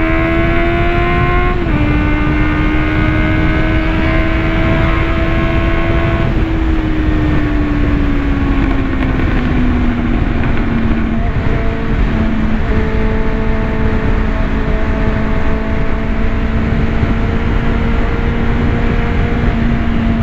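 Motorcycle engine pulling under way. The revs climb, drop suddenly with a gear change about one and a half seconds in, hold, ease off between about six and ten seconds, then settle into a steady cruise, with wind rushing over the microphone throughout.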